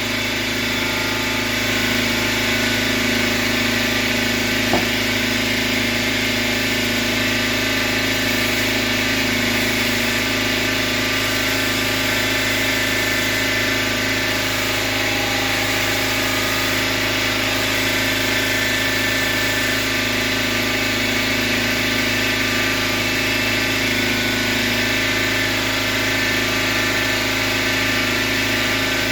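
A motor running steadily at constant speed, with one brief click about five seconds in.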